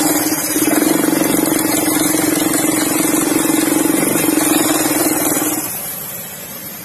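Automatic scooter's engine and CVT running steadily with a rough rumble, then dying down over the last second or so. This is the kind of rough CVT noise the uploader puts down to worn bearings, final-drive gears or rollers.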